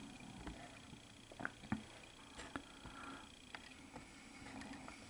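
Quiet indoor room tone with a few faint, scattered clicks and a faint steady high whine that stops partway through.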